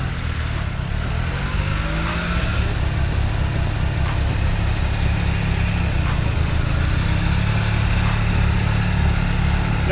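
A 1989 Subaru Sambar mini truck's small engine pulling away, its pitch rising over the first couple of seconds and then running steadily.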